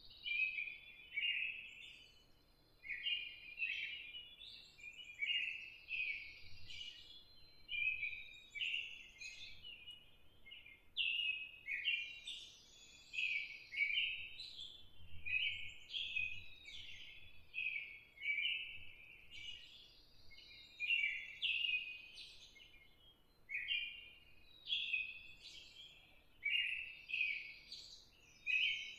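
Small birds chirping continuously, short overlapping chirps following one another about once a second or faster.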